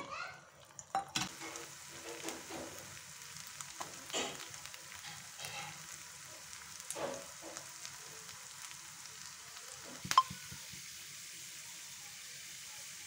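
Ginger strips sizzling in hot ghee, the start of a tadka for daal: a steady frying hiss that sets in about a second in, with a few sharp clicks, the loudest about ten seconds in.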